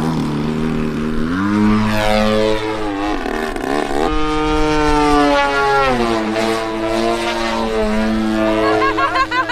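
Radio-controlled aerobatic model aircraft's motor and propeller whining, the pitch climbing and dipping as it throttles through its manoeuvres.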